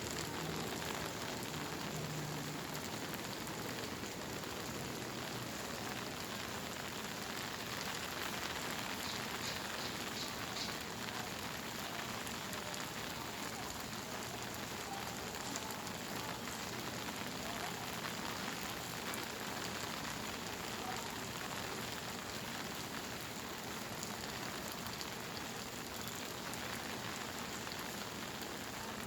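Steady monsoon rain falling, an even hiss with scattered drops pattering.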